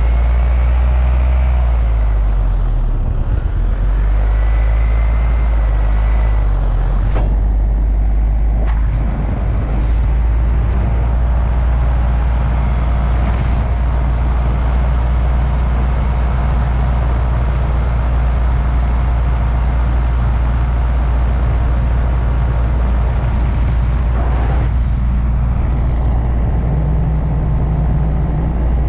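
An engine running steadily at an even speed, with a loud low drone throughout.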